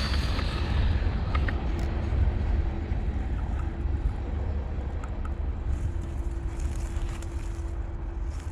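Wind rumbling on the microphone, with a faint steady hum that comes in about three seconds in and stops near the end.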